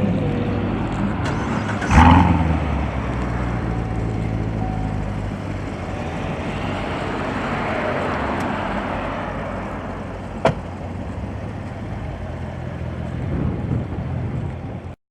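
Car engine running steadily, with traffic noise swelling and fading as a vehicle goes by. There is a loud sudden burst about two seconds in and a sharp click near the end.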